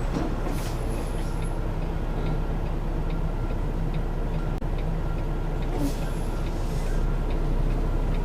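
Semi truck's diesel engine running, heard from inside the cab, with a turn signal clicking steadily at about two clicks a second. Two brief hisses come about half a second and six seconds in.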